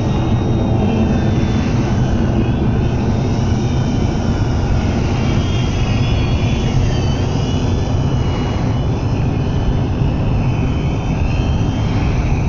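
Radio-controlled aerobatic plane's motor and propeller whining as it flies past, the pitch gliding up and down with throttle and distance, over a steady low rumble.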